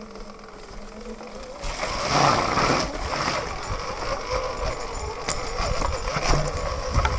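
Sur-Ron electric dirt bike riding a wet dirt trail: a faint steady motor whine, joined about two seconds in by louder tyre, chain and rattle noise as it gets moving.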